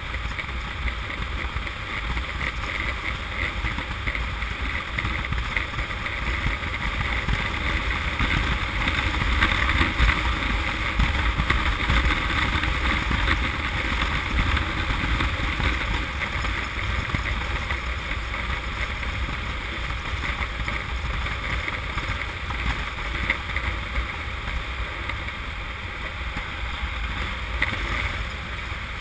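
Honda CM200T motorcycle underway at road speed: its engine running steadily under the rush of wind over the camera, with a deep wind rumble.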